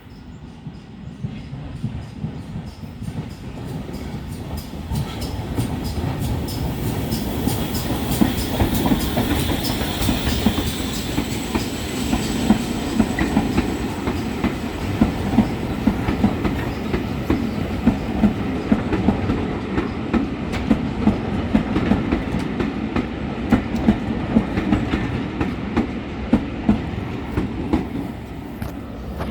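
A train in motion: a steady rumble builds over the first few seconds and then holds, with regular clicks of the wheels over rail joints.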